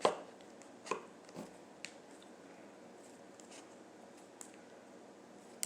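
A few light clicks and taps from objects being handled: several in the first two seconds and one more near the end, over a faint steady hiss.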